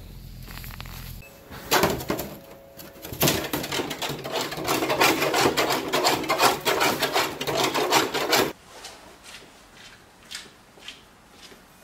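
Loose plastic engine undershield under a Mazda rattling and knocking in a fast, irregular clatter as it is shaken, a sign that its screws or clips have come loose. The clatter starts about two seconds in and cuts off suddenly past the eight-second mark, leaving a few faint clicks.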